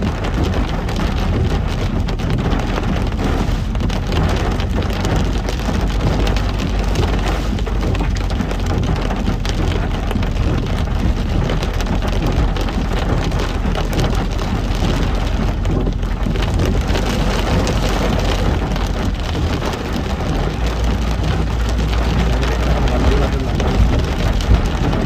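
Heavy rain pattering steadily on a moving car, over the low, even rumble of the engine and tyres on a wet road.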